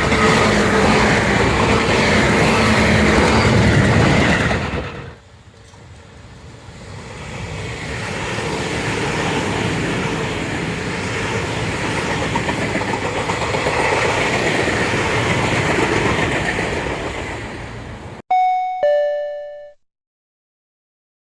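Tobu Tojo Line electric trains passing with steady wheel-on-rail rumble and clatter. The first pass ends about five seconds in, and a second swells up and fades away. It cuts off sharply near the end, followed by a two-note descending ding-dong chime.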